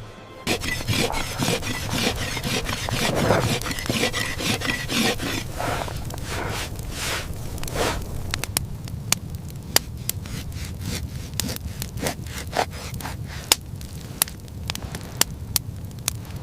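Rough scraping and rasping for several seconds, then a run of sharp knocks and clicks at uneven intervals over a low steady rumble.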